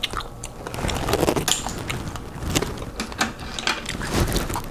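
Close-miked chewing of a boiled clam, with irregular wet mouth clicks and smacks.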